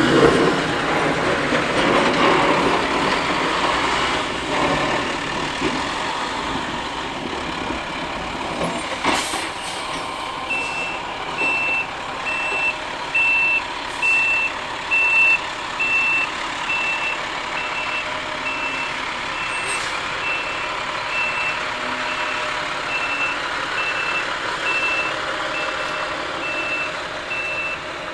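International dual-axle plow truck running, its backup alarm beeping steadily a little more than once a second from about ten seconds in as it reverses. A single sharp knock comes just before the beeping starts.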